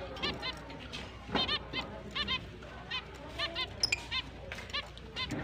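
Finches calling: short chirps repeated in quick groups of two or three, about twice a second.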